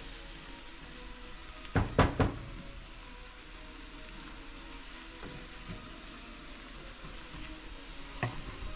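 Squash sautéing in oil and onion in a pot, a steady sizzle, with three sharp knocks about two seconds in and another near the end.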